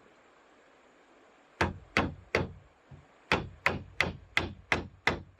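Hammering on wood: about ten sharp, evenly spaced blows, roughly three a second, beginning about a second and a half in.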